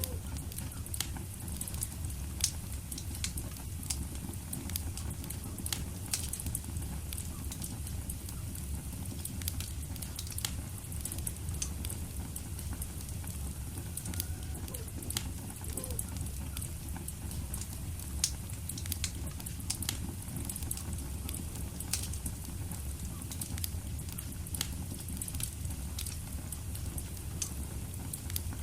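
Wood fire burning steadily in a fireplace, with a low rumble of flames and frequent sharp crackles and pops at irregular moments.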